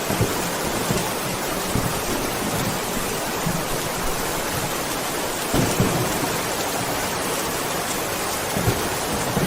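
Steady rain falling in a thunderstorm, an even hiss with a few short low thumps, the strongest about five and a half to six seconds in.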